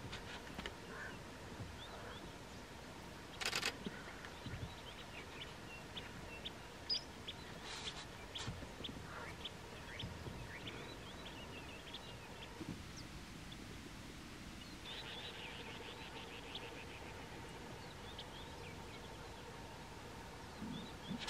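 Scattered short bird chirps and calls over a faint outdoor background, with a rapid trill about two-thirds of the way in. Two brief louder knocks come a few seconds in, and a faint steady hum enters in the second half.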